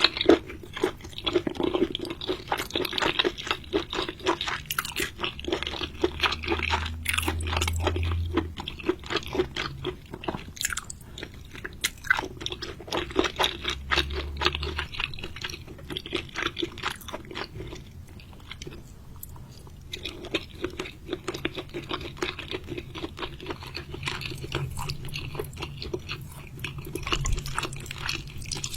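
A person chewing and crunching seafood, rapid wet crackles and crunches, with a brief lull about two-thirds of the way in.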